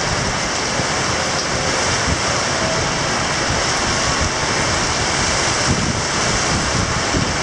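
Typhoon wind blowing hard: a loud, steady rushing noise with uneven low buffeting of wind on the microphone.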